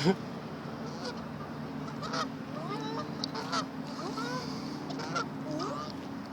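Geese honking: a loud rising honk at the start, then a string of shorter honks through the middle, over a steady low hum.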